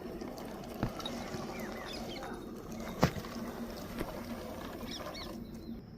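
Birds chirping in short calls over a steady low hum, with one sharp click about three seconds in.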